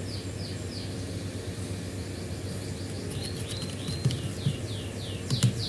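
A small bird chirping over and over in quick falling notes, several a second, over a steady low hum. A few light knocks come near the end.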